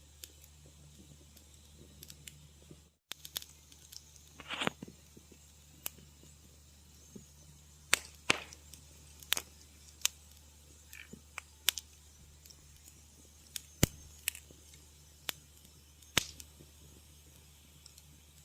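Wood fire crackling in a fireplace: sharp, irregular pops and snaps about once a second over a steady low hum, with a brief dropout about three seconds in.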